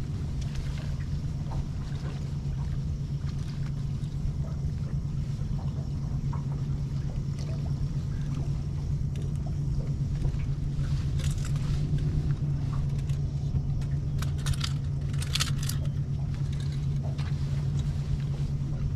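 A boat's motor running steadily as a low, even hum. A few short rattles and clicks come over it about halfway through.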